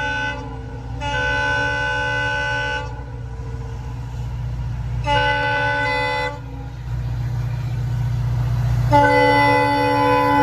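Train horn sounding in a series of long multi-tone blasts, the last one starting about a second before the end, over a steady low rumble of a passing train that grows louder partway through.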